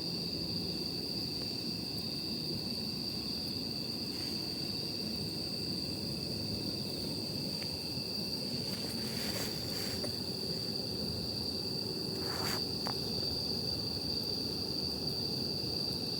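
Wood campfire burning with a low steady rustle and a couple of sharp pops, about nine and twelve seconds in. Night insects keep up one continuous high-pitched trill throughout.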